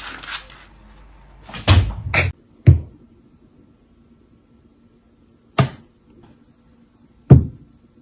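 A brief hiss, then a series of sharp knocks and thumps: three close together in the first three seconds, then two single ones, about five and a half and seven seconds in.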